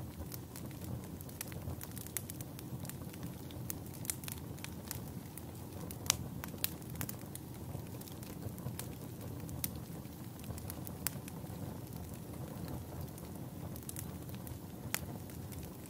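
Campfire burning steadily with a low flickering rumble and scattered crackles and pops of burning wood, one sharper pop about six seconds in.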